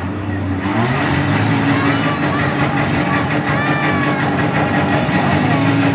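Demolition derby car engines running in a steady drone, with a rise in pitch about a second in as one revs up.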